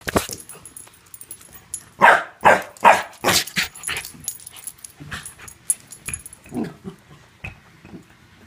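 Dog barking excitedly: a quick run of four or five loud barks about two seconds in, then softer, lower yelps and whines.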